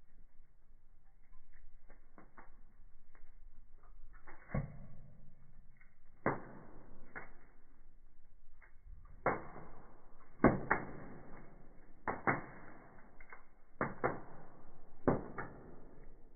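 Wood fire burning in a fireplace, crackling with irregular, muffled pops, about one or two a second, the loudest about two-thirds of the way through.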